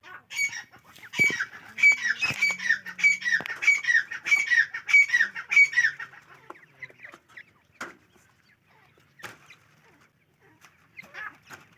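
Teetar (francolin) calling: a fast series of repeated, sharp call notes, two or three a second, for about six seconds. A few scattered calls and knocks follow, and the calling starts again near the end.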